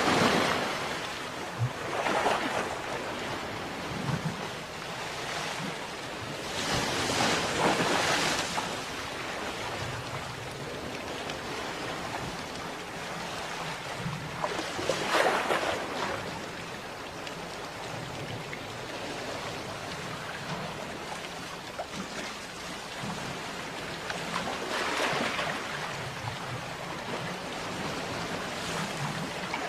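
Sea waves breaking on a shore: a steady wash of surf, with a louder wave breaking every several seconds.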